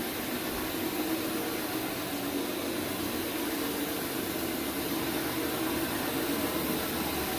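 Counter-rotating brush (CRB) carpet scrubbing machine running steadily, its motor humming as the brushes work encapsulation cleaner into the carpet pile.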